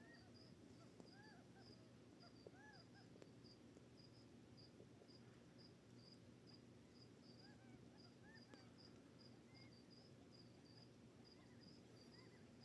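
Faint quail calls, a few short arched notes, over a steady run of high chirps about three a second and a low steady hum.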